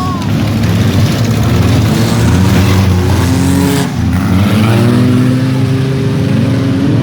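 Demolition derby car engines revving hard, several engine pitches rising and falling over one another, with a brief dip about four seconds in.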